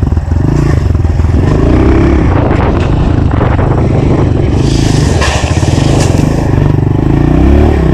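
Honda CRF125 single-cylinder four-stroke dirt bike engine running hard and revving up and down as it is ridden over a track jump, with a rougher, clattering stretch near the middle: the bike is cased on the landing and nosedives.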